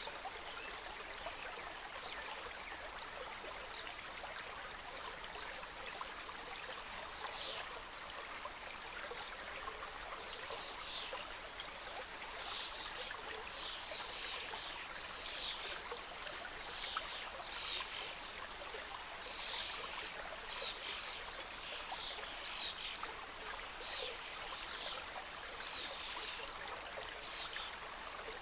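A small mountain stream running and cascading in a steady rush of water. From about a quarter of the way in, a run of short high chirps repeats over the water, about one or two a second.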